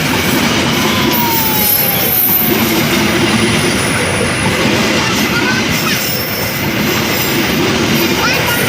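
Train passing close by: a loud, steady rumble of wheels on the rails, with a faint falling whine about a second in.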